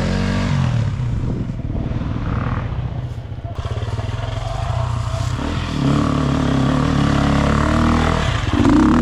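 Four-stroke single-cylinder dirt bike engine running under throttle. The revs sag about three seconds in, climb again around six seconds in, and peak near the end.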